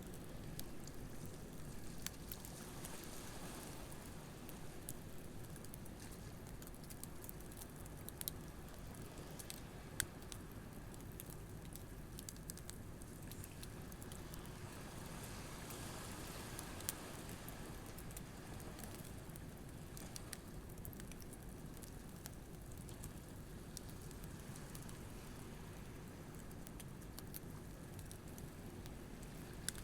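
Wood campfire crackling, with irregular small pops and a few sharper snaps, over a steady low wash of waves on a beach that swells up now and then.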